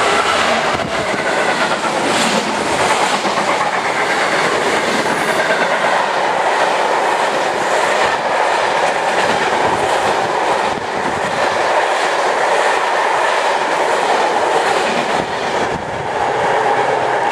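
EWS Class 66 diesel-electric freight locomotive passing at speed, followed by its train of freight wagons rolling through. A steady loud rush of wheels on rail, with a repeated clickety-clack of the wheels over rail joints.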